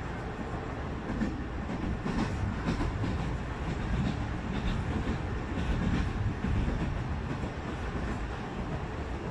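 Sangi Railway Hokusei Line narrow-gauge (762 mm) electric train running along the track, heard from inside the cab: a steady low rumble with the wheels clicking irregularly over the rail joints.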